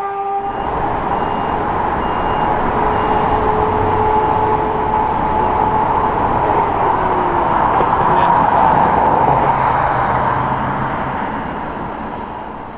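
Ferrari F2008 Formula One car's 2.4-litre V8 running at high revs, a steady high engine note under a dense hiss, fading away near the end.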